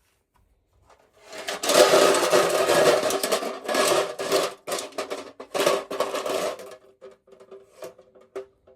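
Rustling and scraping of packaging being handled and opened, in uneven bursts with small clicks, loudest in the middle and thinning to scattered taps near the end.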